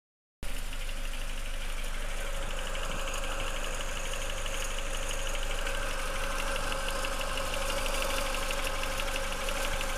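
Chevrolet Lacetti engine idling, with a steady hum from the timing belt tensioner pulley: the tensioner is failing.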